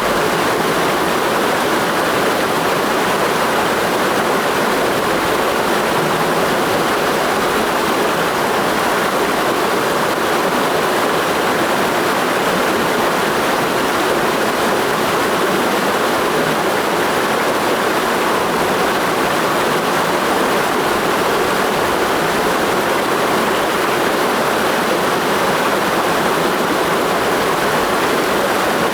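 Mountain stream flowing in a steady, unbroken rush of water.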